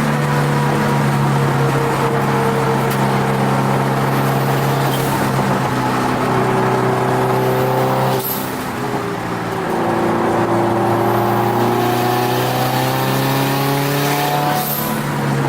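Turbocharged Subaru WRX STI flat-four engine heard from inside the car under hard track driving. The revs sag slowly, break briefly about eight seconds in, then climb steadily for several seconds before breaking again near the end.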